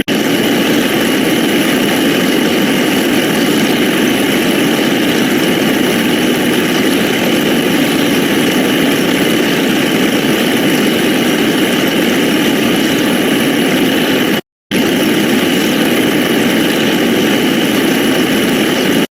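A dense, steady wall of noise from many digital sound effects piling on top of one another, cutting out briefly about fourteen seconds in.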